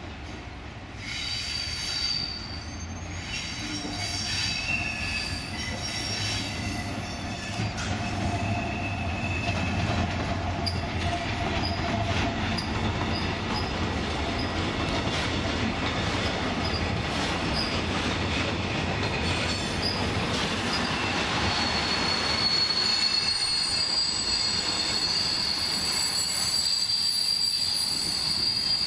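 A Colas Rail Class 70 diesel locomotive passes hauling a freight train of empty timber wagons, its engine rumbling as it goes by. High squealing tones come from the wagons as they roll past, with one strong steady squeal near the end.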